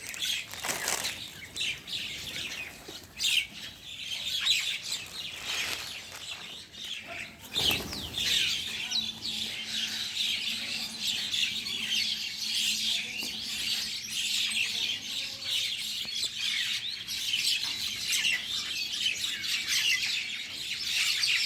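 Pet bird chirping continuously in quick, high notes, with two brief broad rustles, one about a second in and one near eight seconds.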